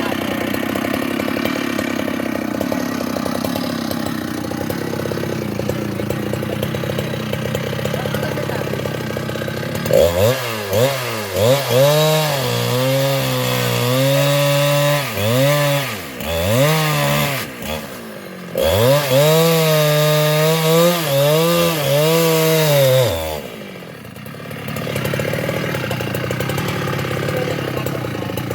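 Large two-stroke Husqvarna chainsaw idling, then from about ten seconds in running at full throttle through a cut in a sengon (albizia) trunk, its pitch repeatedly dipping under load and recovering. Near the end the throttle is released and it drops back to a steady idle.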